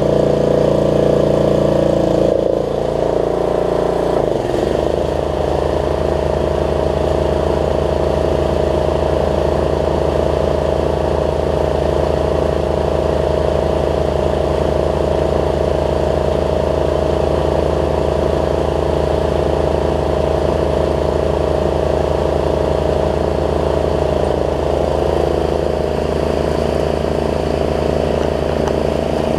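Snapper rear-engine riding mower's engine running; about two to four seconds in its speed drops, then it runs steadily at the lower speed.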